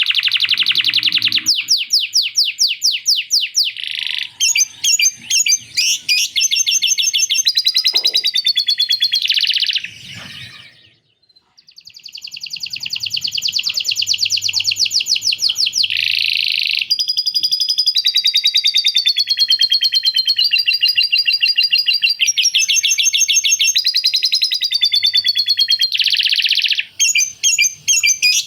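Male canary singing a long, nearly continuous song of fast trills and rolling phrases, pausing briefly about eleven seconds in. Its song is filled with mimicked lovebird chatter.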